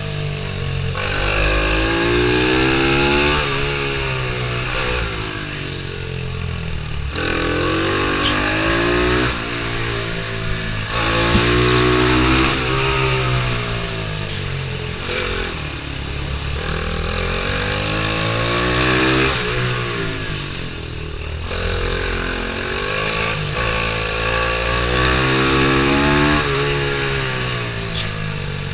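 Pitbike engine racing, revving hard and rising in pitch, then dropping back, again and again every few seconds as the rider accelerates out of corners and brakes into the next.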